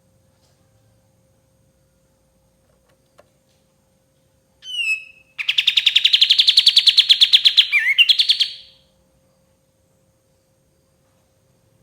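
Kapas tembak bulbul singing. About four and a half seconds in comes a short down-slurred note, then a loud, rapid trill of many quick even notes that lasts about three and a half seconds.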